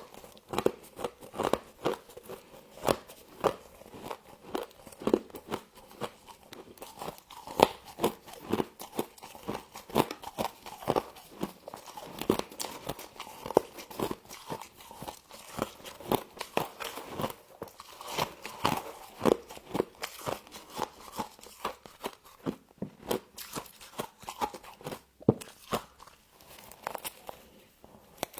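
Frost being bitten and chewed up close: a dense run of sharp, crackly crunches, several a second.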